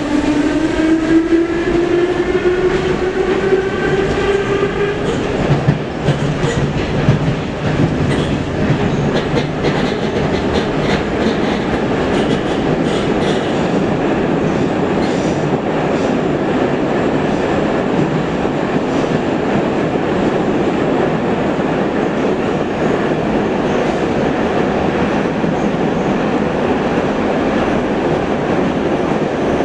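Metro train running in the tunnel. The traction motors whine, rising in pitch for about the first five seconds as the train accelerates. Then comes a steady rumble of wheels on rails, with clicking over the rail joints.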